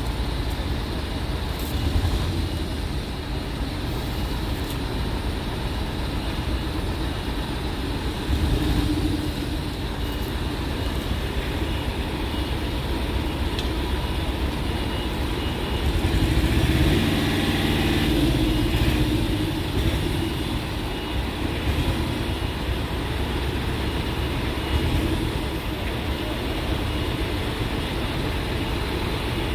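Steady road-vehicle engine and traffic noise, a low continuous rumble, with one louder vehicle passing, its pitch sweeping, a little past halfway.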